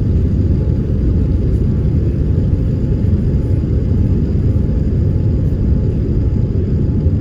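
Steady low rumble of an airliner's engines and airflow heard inside the passenger cabin, with a faint thin whine above it.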